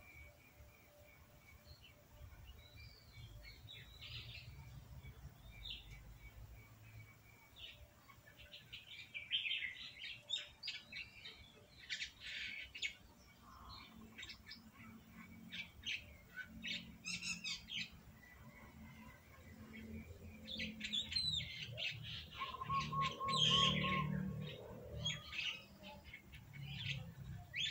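Birds chirping, with many short high chirps that grow busier after about eight seconds and a quick trill a few seconds before the end. A faint low hum runs underneath.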